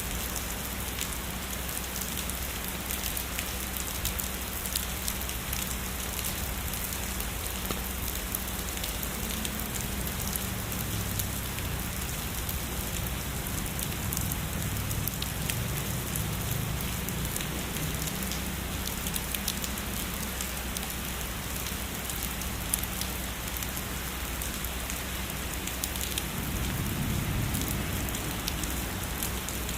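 Heavy rain falling steadily, a dense hiss with fine individual drops ticking through it. A soft low rumble swells briefly near the end, like distant thunder.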